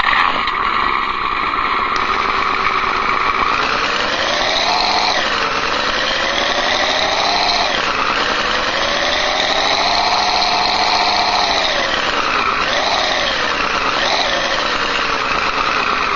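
Recorded engine sound of a late-model GM 5.7-litre V8, played back through an RC car sound unit's speaker. It idles steadily, then revs up and back down several times, with two quick blips near the end.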